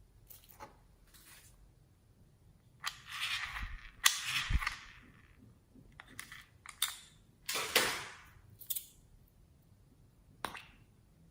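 Slime being squeezed and worked by hand: several sharp pops of trapped air, each followed by a short crackling squish.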